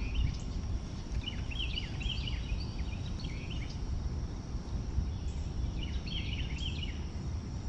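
A bird calling in two quick runs of short, high chirping notes, over a steady low outdoor rumble.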